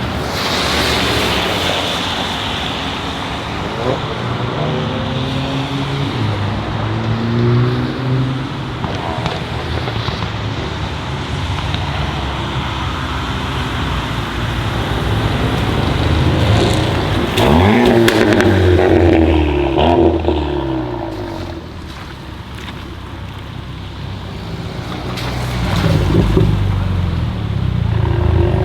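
Several modified sports-car engines revving and accelerating past one after another, the pitch rising and falling with each pull. The loudest pass comes just past the middle, a rising run with a few sharp exhaust pops.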